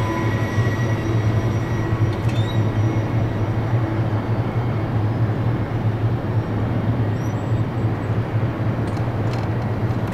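Steady low rumble of a freight train on the move past a grade crossing, with a few faint ringing tones that fade out in the first few seconds.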